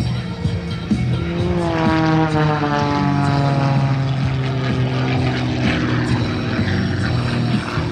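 Propeller-driven aerobatic airplane flying past, its engine note dropping in pitch as it goes by, then holding steady.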